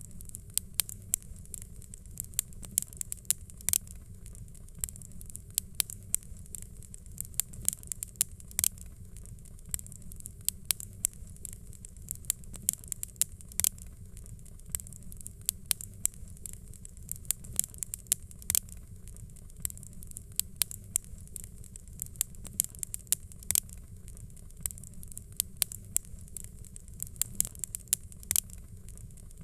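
Fireplace crackling: a log fire pops and snaps irregularly, several sharp crackles a second, over a steady low rumble.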